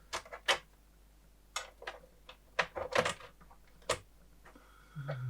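A string of sharp, separate clicks, about seven over four seconds at uneven spacing: buttons on the front panel of a Tektronix TDS 210 oscilloscope being pressed. A short low hum comes in near the end.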